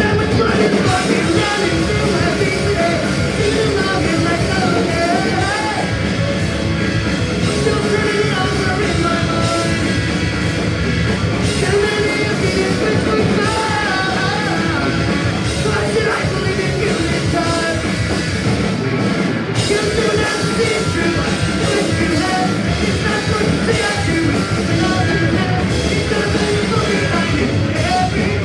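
Punk rock band playing live: loud, fast distorted guitars, bass and drums with a sung lead vocal.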